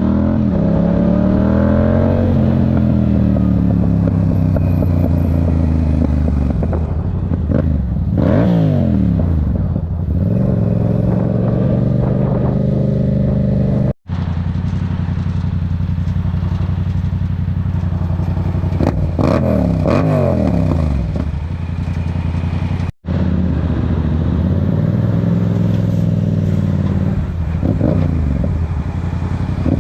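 Yamaha R7 parallel-twin engine through a Yoshimura AT2 aftermarket exhaust, tuned with an ECU flash, running under way. The pitch repeatedly rises and falls as the bike accelerates and changes gear. The sound breaks off for an instant twice.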